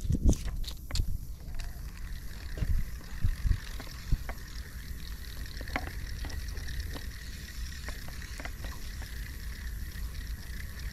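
River water running steadily past the boat, with a low rumble and hiss. Several sharp knocks and clatters come in the first second and again about three seconds in.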